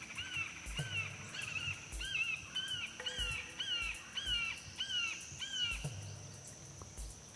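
A bird calling a run of about a dozen repeated, arched whistled notes, roughly two a second, stopping about three-quarters of the way through. Underneath runs a steady high insect drone, with a few soft low bumps.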